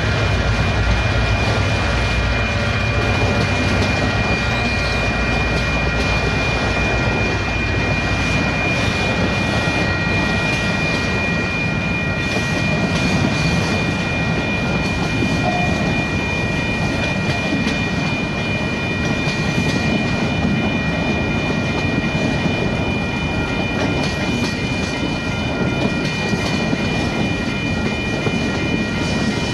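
Freight train of autorack cars rolling past on jointed track: a steady rumble of wheels on rail with clickety-clack, and a steady high-pitched whine held over it. A deeper locomotive engine rumble is stronger in the first few seconds, then fades.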